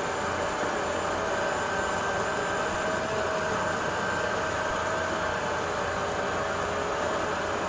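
Shunzao Z11 cordless stick vacuum cleaner running steadily: a constant whirring motor drone with a steady whine over a hiss of rushing air.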